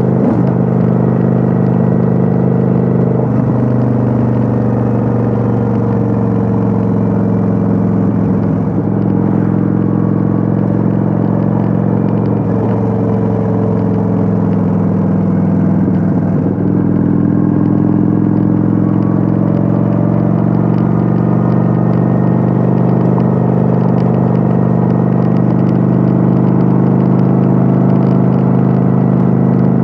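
Kawasaki Vulcan 900's V-twin engine running at a steady cruise, its note shifting slightly in pitch a few times.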